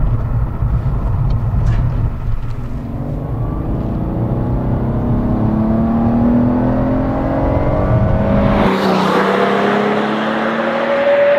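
Ford Mondeo ST220's 3.0 V6, with its newly fitted exhaust, accelerating: the engine note climbs steadily for several seconds. About nine seconds in there is a rush of noise as the car goes past, and then the engine holds a steady note.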